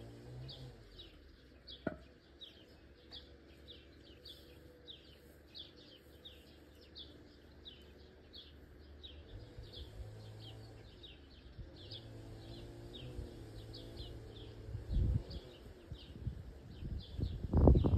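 Birds chirping steadily, short high calls several times a second, over a low hum. Several heavy low thumps come near the end.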